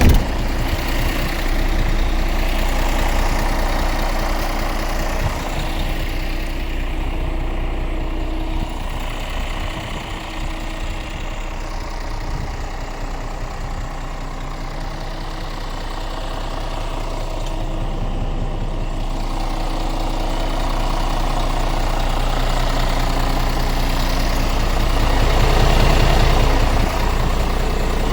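Scania R450's 13-litre inline-six diesel engine idling steadily.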